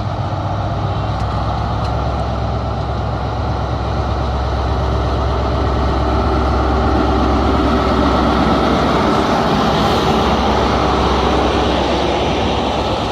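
Diesel train engine running steadily at the station with a deep hum. It grows louder through the middle and eases slightly near the end.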